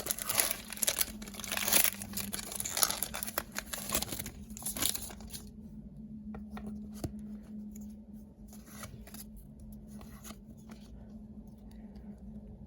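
Foil booster-pack wrapper of Pokémon cards being torn and crinkled for about five seconds, then quieter faint rustles and clicks as the cards are handled.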